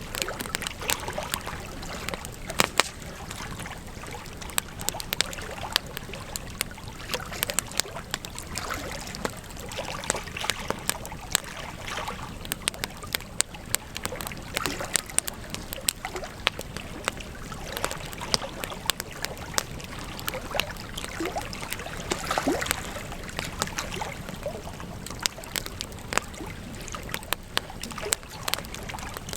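Wood campfire crackling, with many sharp irregular pops and snaps over a steady low rush of burning.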